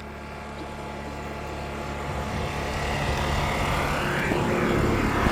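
An engine approaching, its drone growing steadily louder.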